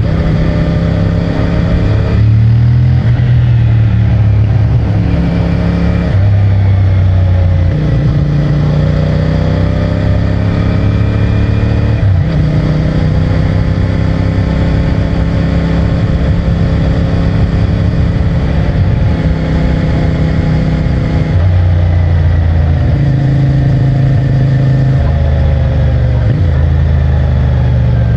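CFMOTO 450MT's 449 cc parallel-twin engine under way on its stock exhaust, pulling up in pitch through each gear, with several gear changes where the note steps to a new speed. Between changes it runs at steady cruise.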